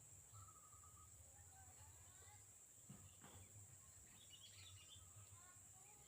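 Faint calls of small wild birds: a quick run of repeated notes, several short rising chirps and a brief cluster of high notes a little past four seconds in, over a steady high-pitched hiss.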